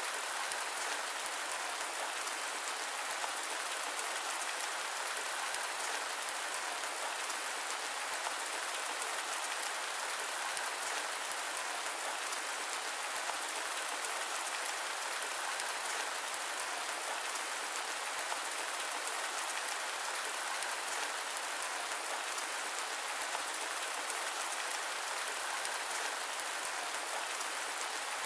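Steady rain falling, an even unbroken hiss with no thunder and little low rumble.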